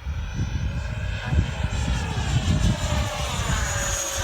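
Electric ducted-fan RC model jet whining as it flies past, getting louder, its pitch dropping slightly near the end as it goes by. Gusty wind buffets the microphone underneath.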